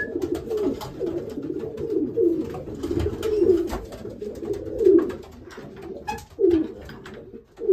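Racing pigeons cooing, several birds overlapping in a continual low, wavering murmur, with scattered faint clicks.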